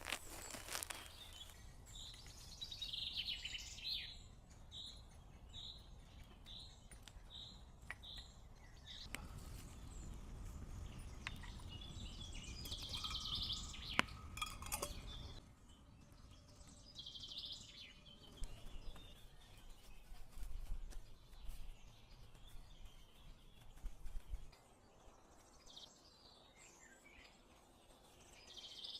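A bird calling: a run of about ten short, evenly spaced high chirps in the first several seconds, then scattered further calls, over a low rumble with a single sharp click about halfway through.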